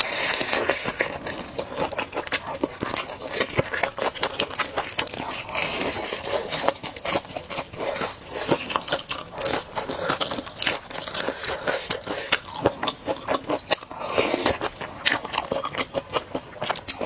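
Close-miked eating of a bowl of spicy luosifen noodles: steady biting and chewing, full of quick, sharp, crisp clicks.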